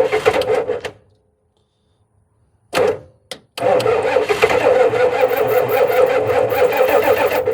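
1991 Ford 7.3 IDI diesel being cranked over by its starter on a cold start: a stretch of cranking that stops about a second in, two short bumps of the starter near three seconds, then a longer crank of about four seconds that cuts off suddenly without the engine catching.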